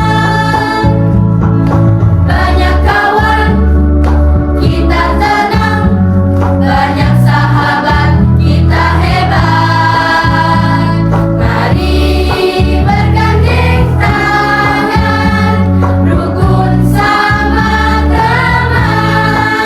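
Mixed school choir singing a song together over sustained keyboard chords, with the low accompaniment notes changing every second or two.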